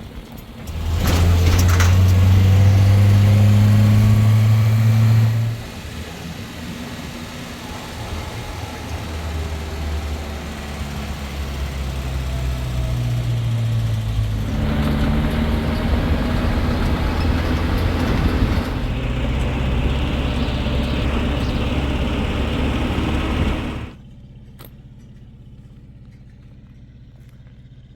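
A motor vehicle's engine running, its pitch shifting up and down as it drives. It drops suddenly in level a few seconds in, then cuts off abruptly near the end, leaving a low hum.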